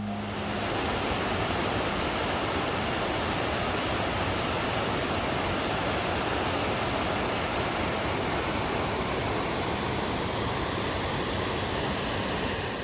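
Colwith Force waterfall: a steady, even rush of falling water.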